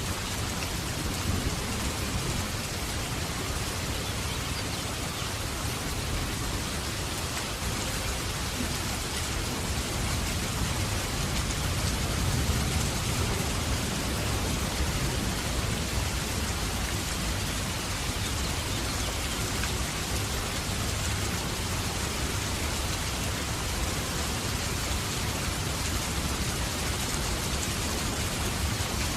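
Heavy rain falling steadily, with a low rumble of thunder that swells around the middle.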